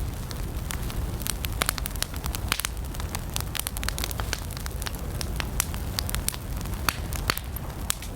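Campfire of burning wood crackling: frequent sharp, irregular pops and snaps over a steady low rumble of the flames.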